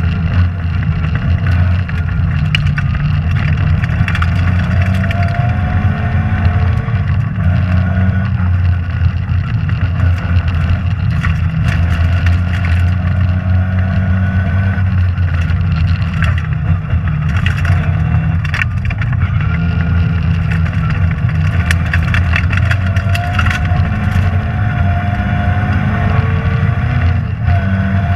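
Rally car engine running hard, heard from inside the cabin, its pitch rising and falling as the driver accelerates and lifts. Frequent sharp ticks and clatters sound over it.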